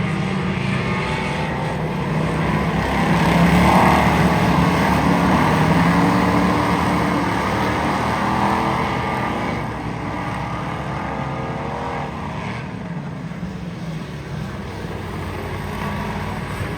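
Race car engine running hard on the track, louder from about 3 s in, then easing back down around 10 s in.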